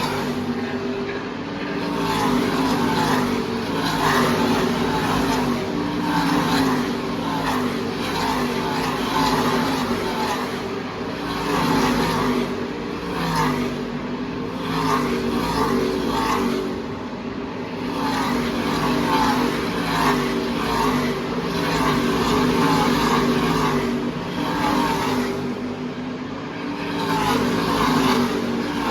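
NASCAR Camping World Truck Series trucks racing on the oval, several V8 engines at full throttle. The engine notes rise and fall in pitch, and the sound swells and fades again and again as the trucks go by.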